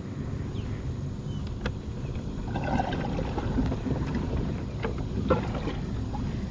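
Pedal-drive fishing kayak underway: a steady low rush of water and wind, with a few light clicks and knocks.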